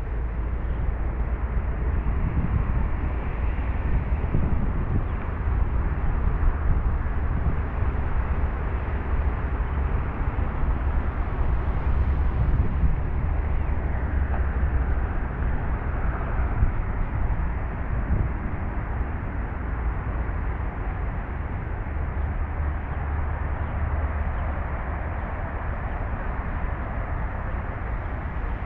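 Steady outdoor background rumble, a low continuous drone with a hiss of noise over it.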